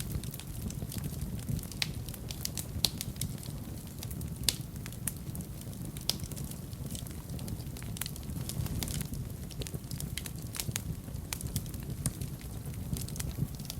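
Fire burning in a fireplace, crackling with many sharp, irregular pops over a steady low rumble of the flames.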